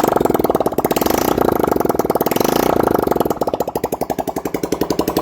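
Bajaj Discover 125's single-cylinder four-stroke engine running at idle with rapid, even pulses, the engine started up after its block kit has been fitted.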